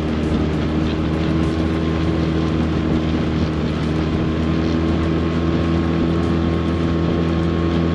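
Boat's outboard motor running steadily under way, a constant low drone, with wind noise on the microphone.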